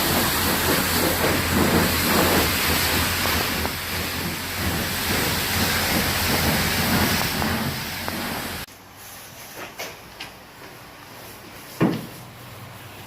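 Steady loud hiss of a high-pressure water spray over a low hum, cutting off abruptly about two-thirds of the way in; a few faint clicks and one sharp knock follow near the end.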